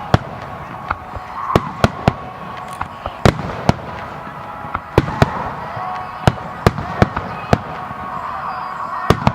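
Fireworks display: an irregular run of sharp bangs from bursting shells, roughly two a second, over a steady background din.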